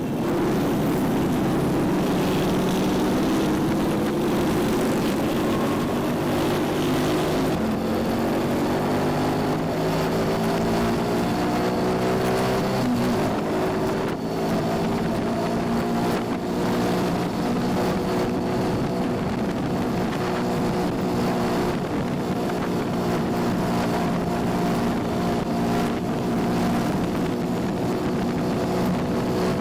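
Yamaha Junoon motorcycle engine under way, its pitch climbing over the first dozen or so seconds as the bike accelerates, then running steadily at cruising speed.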